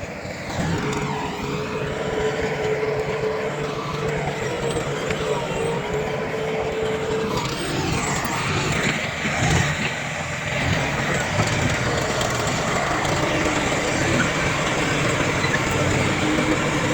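Heavy diesel earthmoving machinery running steadily, with a steady whining tone that fades out about seven seconds in.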